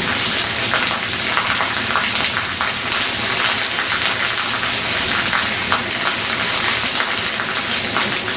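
Heavy thunderstorm downpour: a loud, steady hiss of rain with many individual drop hits through it.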